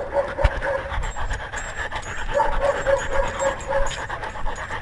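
A dog panting right at a collar-mounted camera, in a quick, even rhythm of about four or five breaths a second, with a slight whine in the breaths. Short knocks from the collar rig are mixed in.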